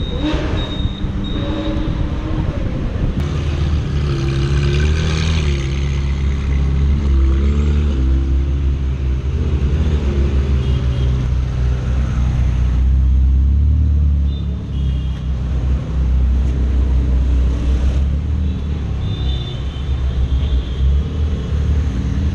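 Loud supercar exhaust: the engine revs up and down several times in the first half, then runs on steadily with a deep low note.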